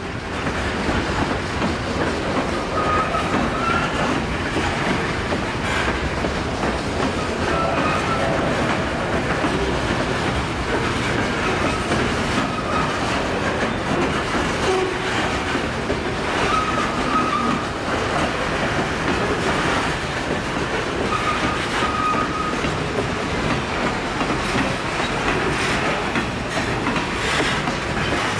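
Freight train rolling past, its cars clattering steadily over the rails, with short high wheel squeals every few seconds.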